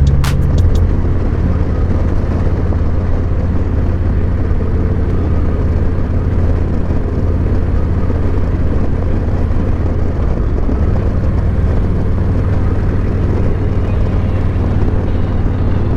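Harley-Davidson Road Glide Special's Milwaukee-Eight 114 V-twin running steadily through an S&S MK45 slip-on exhaust while under way, its note shifting about eleven seconds in.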